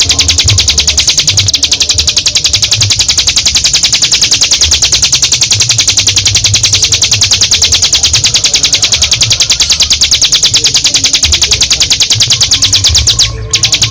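Ciblek gunung (a prinia) giving its long, unbroken rattling trill, the 'ngebren' song: a very fast stream of high notes that breaks off for a moment near the end, over a low irregular rumble.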